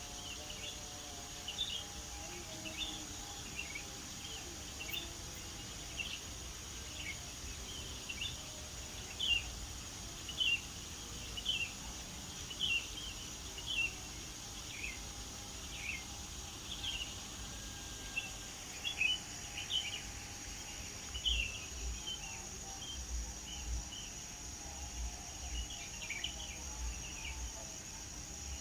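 Birds chirping: short call notes repeated about once a second, over a steady, high-pitched insect drone.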